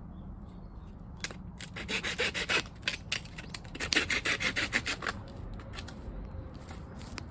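Quick repeated scraping strokes, about four or five a second, from about two seconds in until about five seconds in, with a single sharp click just before.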